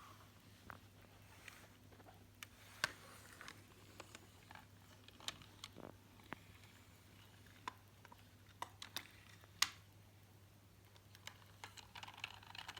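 Scattered light clicks and taps of small toy vehicles being handled and set down, irregular and sparse, over a faint steady hum.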